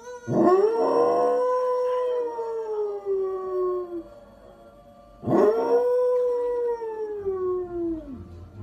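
A dog howling twice, two long howls that each swoop up quickly and then slide slowly down in pitch, the second starting about five seconds in.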